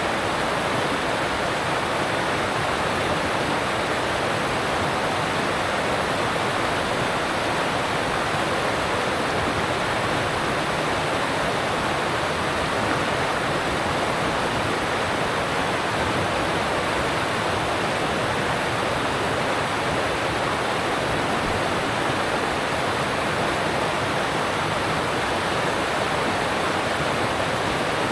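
Alpine mountain stream rushing over rocks: a steady, even roar of water.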